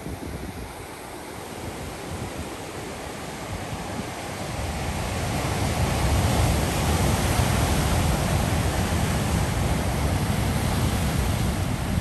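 Ocean surf: a wave rush that builds about a third of the way in and stays loud to the end, with a deep rumble under the hiss of foaming water.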